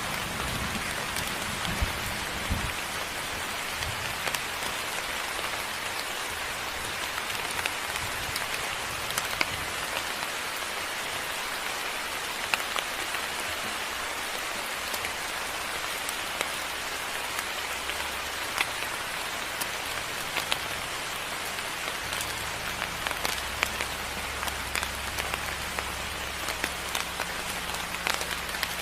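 Moderate rain falling steadily, with sharp individual drops hitting close by. A low rumble sounds in the first few seconds and comes back as a steady low drone about two-thirds of the way through.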